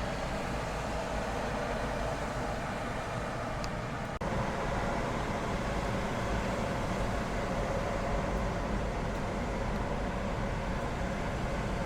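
Lorries and other road traffic passing on a wet road: steady engine and tyre noise, with a brief break about four seconds in, slightly louder after it.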